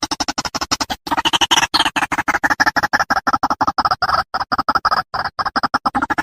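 White-breasted waterhen (ruak-ruak) calling: a rapid, unbroken string of short repeated notes, about ten a second, pausing briefly about a second in.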